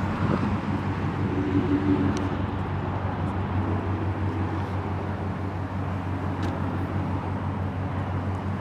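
Steady low hum of motor-vehicle noise: an engine running, with road traffic in the background.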